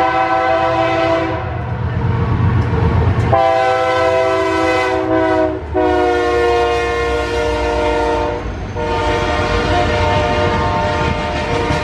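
Freight diesel locomotive's air horn blowing a series of long blasts of several seconds each, separated by short breaks, over the low rumble of the approaching locomotives.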